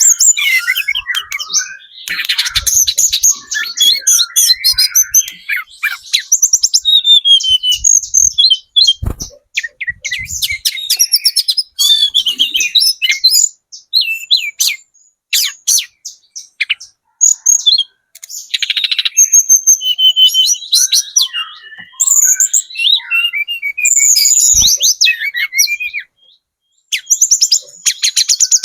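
Young hill blue flycatcher, still in spotted juvenile plumage, singing long runs of rapid, high chattering and twittering notes in phrases of several seconds with brief pauses between them.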